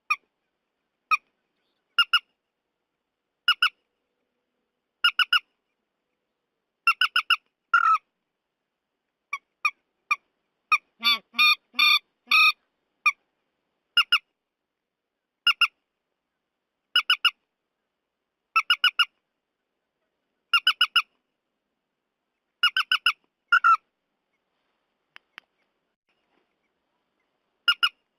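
Trích ré calls: short, harsh, squawking notes in groups of one to three, repeated every second or two, with a denser run of rapid notes about halfway through. It is a looped recording meant as playback to lure the bird into nets at night. The calls pause for a few seconds near the end.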